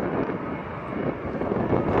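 Engine noise of a landing airliner on low approach, a rumble that grows louder, mixed with wind buffeting the microphone.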